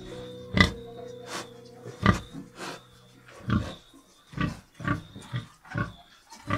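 Domestic pigs grunting: a run of short, separate grunts, about ten of them, coming roughly once or twice a second.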